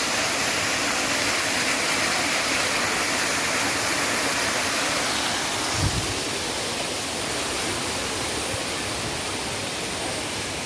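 Waterfall rushing, a steady roar of falling water. There is one short low thump about six seconds in, after which the rush is a little quieter.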